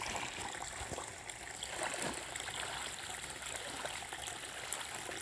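Rain-swollen creek flowing fast, a steady rush of running water.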